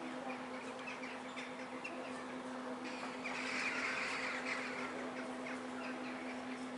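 Small birds chirping, with a louder flurry of chirps about three seconds in, over a steady low hum.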